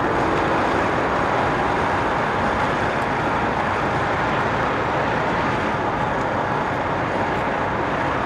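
Steady noise of idling diesel trucks, with wind on the microphone.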